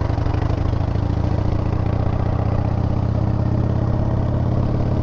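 Harley-Davidson motorcycle's V-twin engine running at a steady speed, its low pulsing note holding one pitch throughout.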